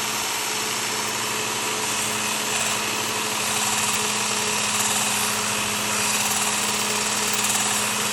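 Work Sharp Ken Onion Elite belt sharpener with grinding attachment running with a steady motor hum while a knife blade is ground on its abrasive belt. The grinding hiss swells and fades several times as the blade is passed across the belt.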